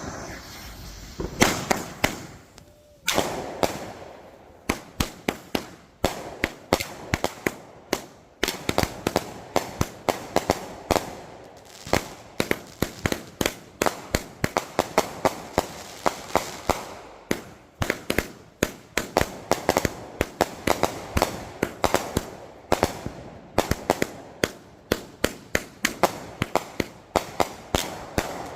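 Fireworks going off: a long run of sharp bangs and pops, often several a second in quick clusters, with brief gaps between volleys.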